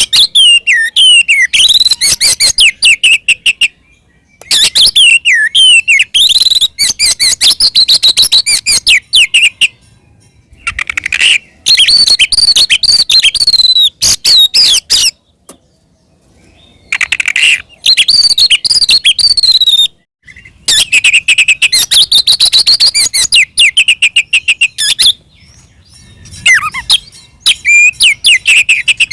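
Oriental magpie-robin singing loudly in bouts of rapid whistles, trills and chattering notes, with short pauses between bouts. This is an excited, fighting-mood song ("ngeplong tarung") of the kind played to provoke other magpie-robins into answering.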